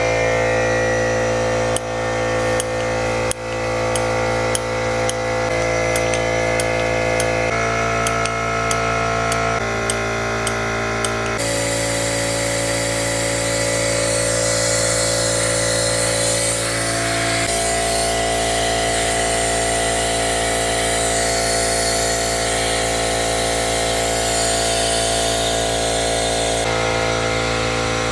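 Air compressor running steadily, powering a pneumatic vacuum brake bleeder. From about eleven seconds in until near the end, the bleeder hisses loudly as it draws fluid and air from the brake line.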